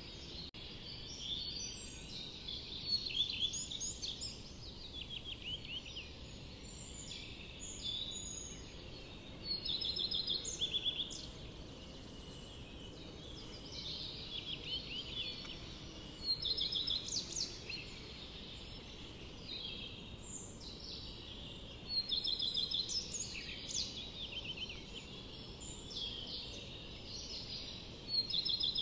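Several songbirds singing in a forest, with overlapping phrases of quick repeated trilled notes following one another throughout, over a steady low background rumble.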